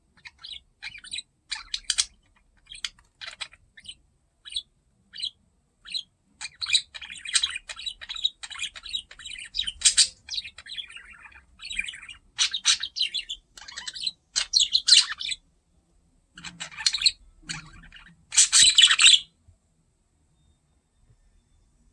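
Pet budgerigar chirping and chattering in quick runs of short, high chirps. It falls silent about three seconds before the end.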